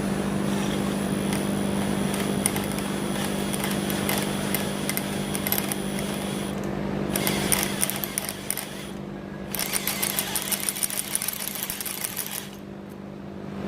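Milwaukee cordless drill with a 1/4-inch bit drilling into the steel rear trunnion of an AK-pattern pistol. It runs in spells, with short stops about halfway through and again near nine seconds, and stops shortly before the end. A steady low hum sits underneath.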